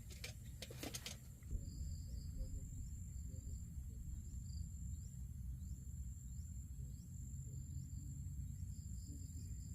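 Insects trilling outdoors: a steady high-pitched drone with short chirps repeating about once a second, over a low rumble of wind on the microphone. A few clicks come in the first second.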